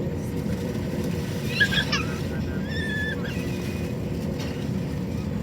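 Steady low rumble of an Airbus A321's cabin noise from its engines and air system. Two short high-pitched honk-like sounds come through it, one about a second and a half in and a slightly longer, steadier one about three seconds in.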